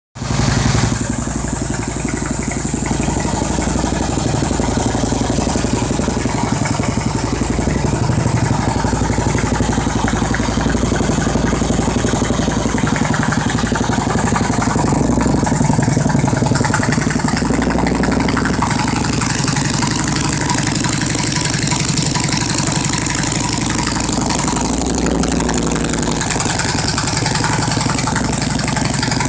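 Harley-Davidson Street Glide's Twin Cam 96 V-twin engine idling steadily.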